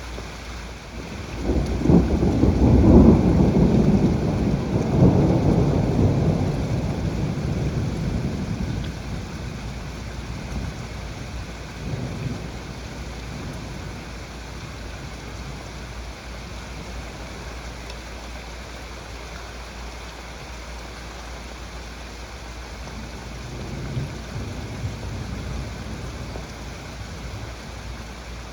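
Thunder over steady heavy rain. A loud, low rumble builds a second or two in, peaks over the next few seconds and slowly dies away, and two fainter rumbles follow later.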